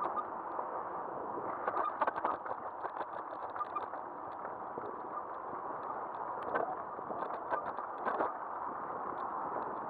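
Riding noise from a moving e-bike picked up by a camera mounted on its front: a steady rush of tyres on pavement and wind, with frequent small rattles and clicks.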